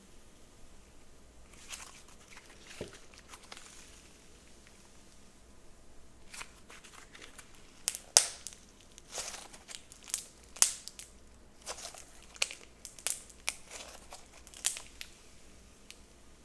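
Slime being worked by hand, giving a run of sharp crackles and crinkling pops that come thickest in the second half, the loudest about halfway through.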